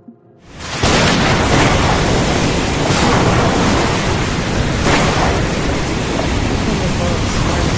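A loud, steady rushing noise that swells in quickly about half a second in. It holds level with a few brief surges.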